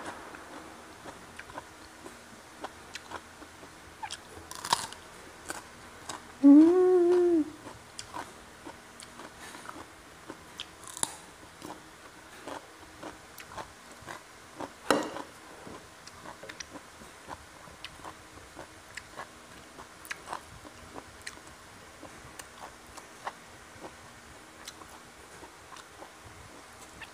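Close-miked eating of crispy fried catfish and raw vegetables: a steady run of small chewing clicks and crunches. About six and a half seconds in there is a brief hummed "mm", the loudest sound.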